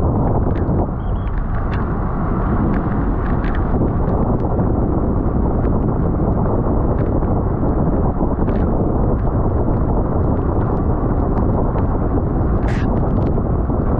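Wind rushing over a bicycle rider's camera microphone at race speed: a loud, steady roar, with scattered small clicks and a couple of short hissing gusts near the end.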